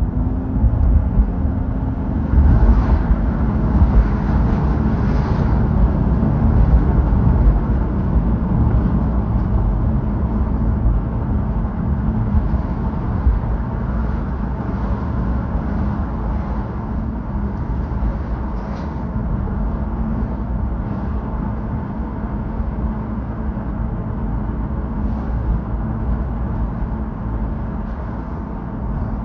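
Car driving: a steady low rumble of engine and tyre noise with a few faint clicks.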